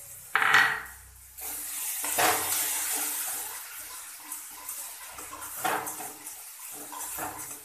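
Spice masala sizzling in hot oil in a steel kadai, a steady hiss, just after wet melon-seed and chilli pastes are added. A metal spatula stirs and scrapes the pan, with louder strokes now and then.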